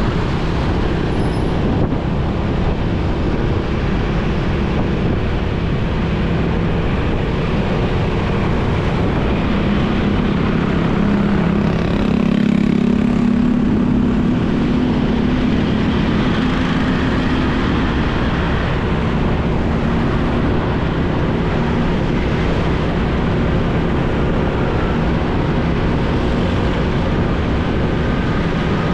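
Motorcycle running along a busy road, with steady engine hum, wind and road noise and surrounding traffic. An engine tone swells louder between about ten and eighteen seconds in.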